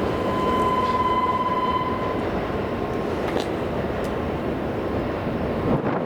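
Shinkansen train running at the platform: a steady loud rushing noise, with a high steady whine over the first two seconds and a few sharp clicks later.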